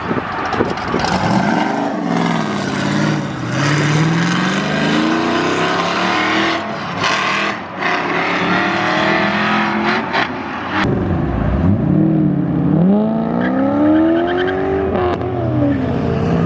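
High-performance car engines revving and accelerating, the engine pitch climbing and dropping several times. There is a single sharp crack about eleven seconds in.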